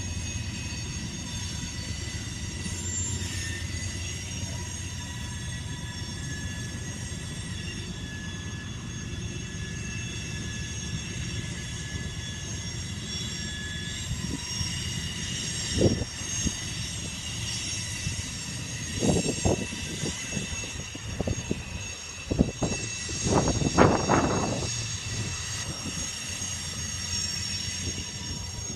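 BNSF grain train rolling past: a steady rumble of wheels on rail with high, ringing wheel squeal. A run of clanks and bangs comes from about 16 to 24 seconds in, the loudest near the end.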